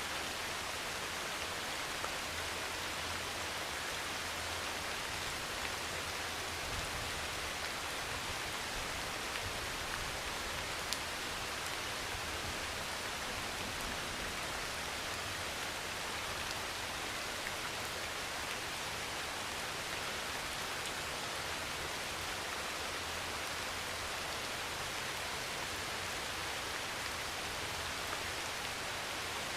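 Heavy rain pouring steadily on a metal roof, an even hiss of drops with a few sharper ticks of single drops striking the sheet metal.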